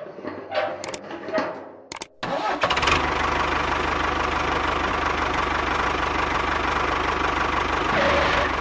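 After about two seconds of uneven sounds there is a sudden break, then a small engine or motor starts up and runs steadily, with a fast, even low throb.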